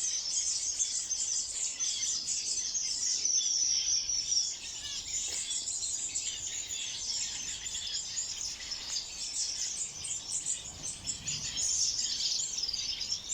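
Many small aviary birds chirping and twittering together, a dense high-pitched chatter that goes on without a break.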